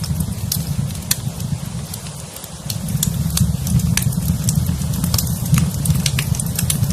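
Wood fire crackling in a fireplace: irregular sharp pops and snaps over a steady low rumble, which eases briefly about two seconds in.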